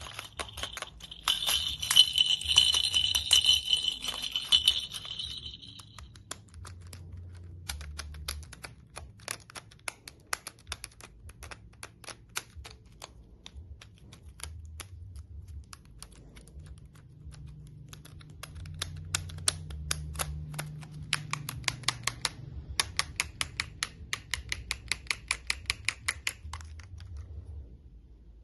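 Toys being handled: a rattling shake for the first few seconds, then a long run of sharp clicks and taps that come thicker and louder in the last third before stopping.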